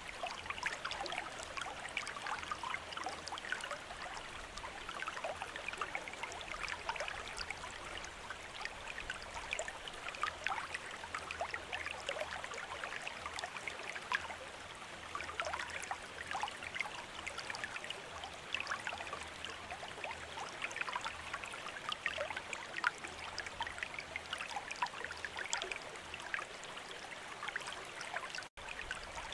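Bamboo water fountain: water trickling and splashing steadily into a basin, a dense patter of small droplets, briefly cutting out near the end.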